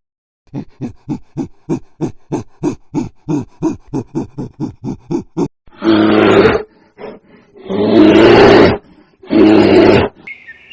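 A big cat calling: a quick series of short grunts, about four a second, then three long, loud roars in the second half, the middle one the longest.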